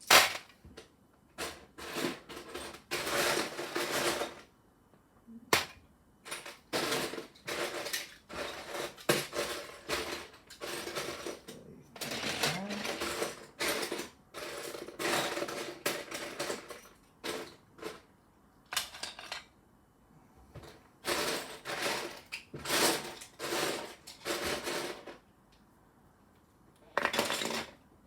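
Loose LEGO plastic pieces clicking and rattling as hands sift through them, in bursts with short pauses between.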